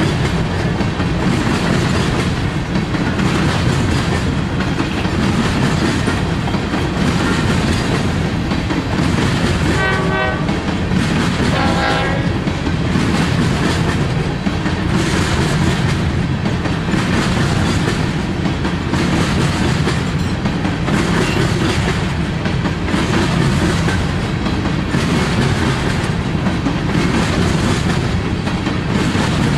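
Freight train rolling past, its cars' wheels clattering steadily over the rail joints, with two short horn sounds about ten and twelve seconds in.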